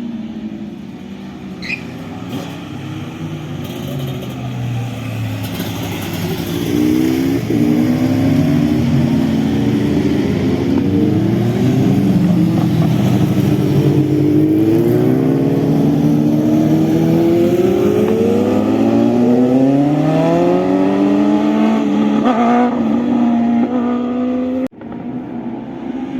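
Motorcycle engine accelerating hard, its pitch climbing and dropping back again and again as it shifts up through the gears, growing louder over the first several seconds. The sound cuts off abruptly near the end.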